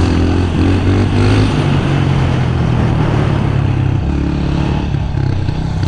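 Small pit bike engine running under way. Its pitch shifts up and down with the throttle in the first second or so, then it runs fairly steadily.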